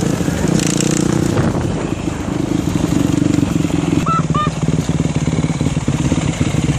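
Dirt bike engine running at a steady speed, its note turning more pulsing about four seconds in, with two short high chirps at that point.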